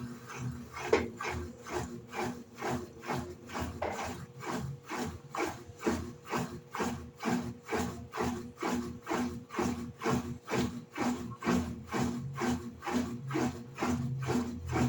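Electrolux LED14 14 kg top-loading washing machine agitating its load: a rhythmic swish and rub of clothes in water, about three strokes a second over a low motor hum, starting about a second in.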